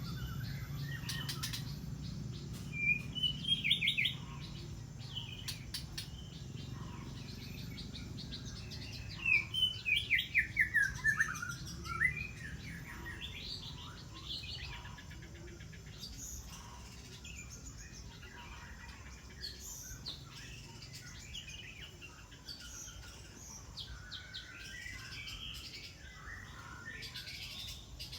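Wild birds chirping and singing, with two loud runs of rapid notes, a short one about three seconds in and a longer one from about nine to twelve seconds that steps down in pitch, over a low steady background hum.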